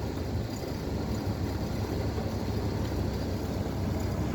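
Steady low rumble of a vehicle running, with wind noise on the microphone.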